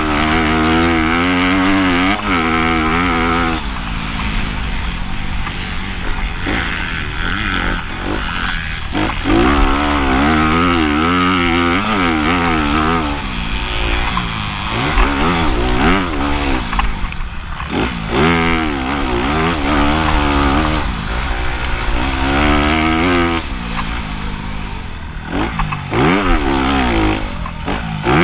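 Motocross bike engines revving up and falling back over and over as the riders accelerate, shift and roll off for the track's jumps and turns.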